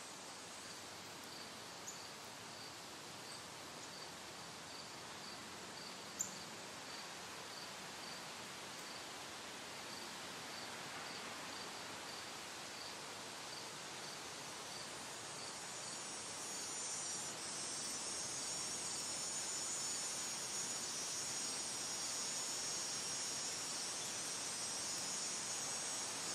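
Faint outdoor insect chorus: one insect, likely a cricket, chirps in a high, regular pulse about twice a second, and a higher, steady insect buzz grows louder in the last third. A single sharp click sounds about six seconds in.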